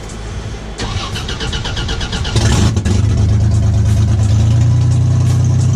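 Buick Grand National's turbo V6 cranking on the starter with a regular beat, then catching about two seconds in and settling into a loud, steady idle. The exhaust crossover pipe is off, so the engine runs with the exhaust open at the manifolds, and it sounds horrible.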